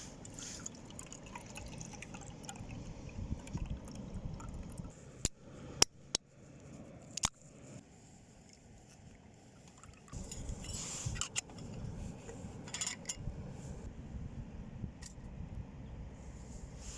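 Liquid trickling and dripping, with a few sharp clicks and knocks in the middle, over a low wind rumble on the microphone.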